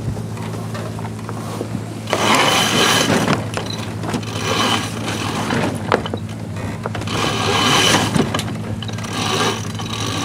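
Boat engine running with a steady low drone, while water rushes and splashes along the hull in surges every second or two.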